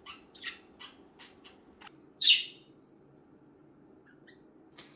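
Budgerigars giving short chirps in quick succession, with one louder call a little over two seconds in, then only a few faint chirps.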